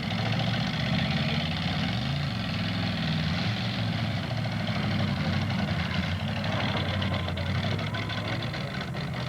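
Demolition derby car engines running and revving, with the engine pitch rising and falling about two seconds in, over a steady noisy din.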